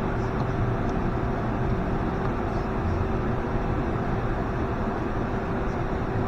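Steady machine noise with a constant mid-pitched hum, unchanging throughout.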